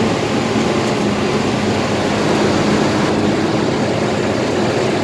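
Heavy diesel engine of farm machinery running steadily, a continuous drone with a constant pitch.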